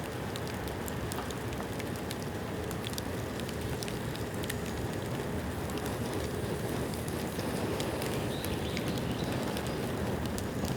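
Bamboo bonfire burning: a steady rush of flame with frequent small crackles and pops scattered throughout.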